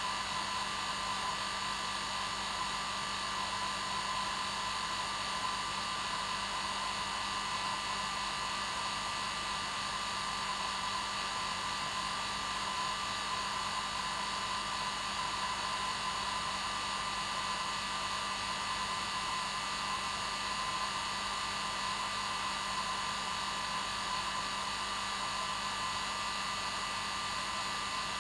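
Hair dryer running steadily, an even whooshing rush of air with a constant motor whine, unchanging throughout.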